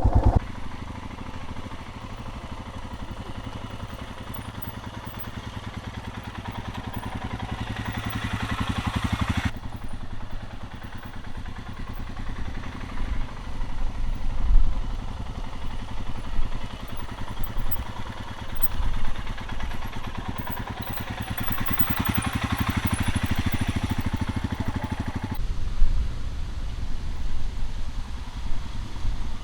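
Motorcycle engine running at low speed as the bike is ridden in slow, tight circles, its steady pulsing swelling and easing with the throttle. There are two sharp knocks, one midway and one late.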